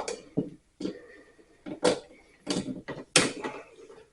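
Torque screwdriver tightening the terminal screws of a dryer outlet: a series of short mechanical clicks and creaks at irregular spacing, the loudest about three seconds in.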